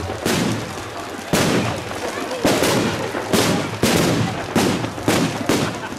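Firework bangs going off one after another, about eight loud sharp reports in six seconds at irregular spacing.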